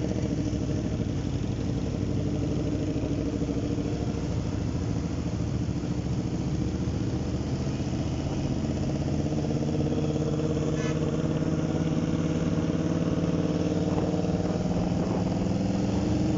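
Motorcycle engine running steadily under way, its pitch rising gradually over the last several seconds as it speeds up.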